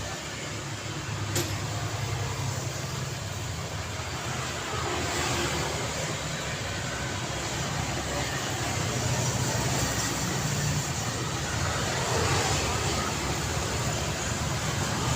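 City road traffic: a steady wash of passing vehicles, tyre and engine noise with a low rumble, growing louder toward the end as traffic comes closer. A single short click about a second and a half in.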